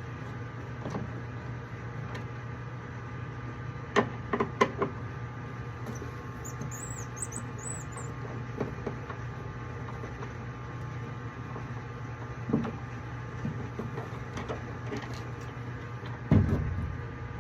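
Sharp clicks and knocks of tools and metal furnace parts being handled during removal of an inducer motor, three close together about four seconds in and the loudest near the end, over a steady low hum.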